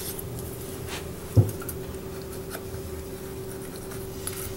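Razor-sharp kitchen knife slicing thin cuts through a ripe pear on a wooden cutting board: faint scrapes and light ticks, with one thump about a second and a half in. A steady low hum runs underneath.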